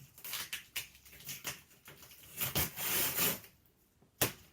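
Cardboard shipping box and its packing being handled: irregular scraping and rustling, a longer, louder rub in the middle, and one sharp knock near the end.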